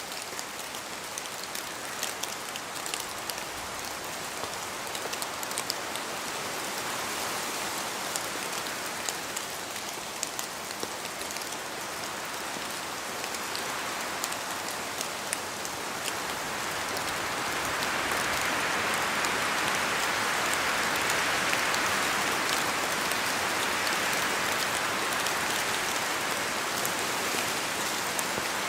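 Steady rain falling in a forest, with many sharp drops pattering from the trees, and a gust of wind swelling the rush from about halfway through.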